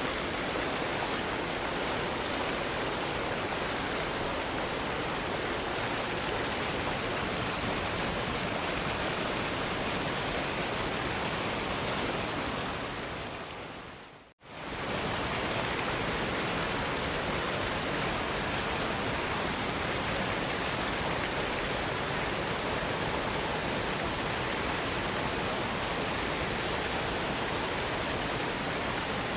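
Waterfall: a steady, even rush of falling water. About halfway through it fades quickly to silence and comes straight back at the same level.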